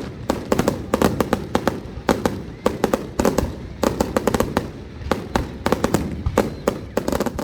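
Fireworks going off in a rapid, irregular volley of sharp bangs and crackles, several a second.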